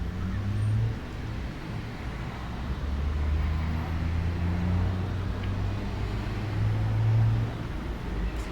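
A low, steady engine hum from a motor vehicle, swelling a little and then easing off near the end, over an even outdoor background hiss.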